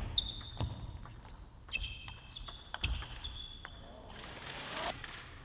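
Table tennis rally in a gymnasium: the ball clicks sharply off rackets and table at irregular intervals while players' shoes squeak on the court floor. A short rush of noise follows about four seconds in.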